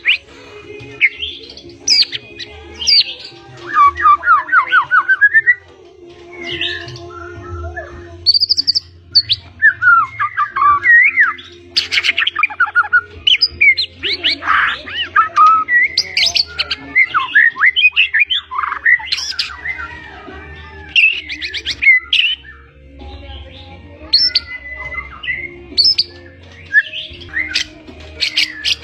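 White-rumped shama singing a long, varied song of loud whistles, chirps and fast rattling trills, in phrases broken by short pauses, with imitations of other birds' calls worked in.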